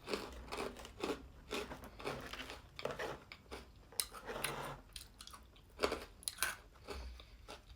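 Close-up chewing of a crispy dried garlic clove snack: irregular sharp crunches, several a second, as it is bitten and ground down.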